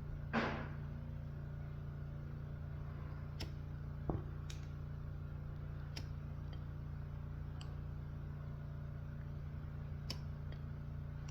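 Steady low hum with scattered light clicks and knocks from hands handling small objects: a short scrape about half a second in and a dull knock about four seconds in.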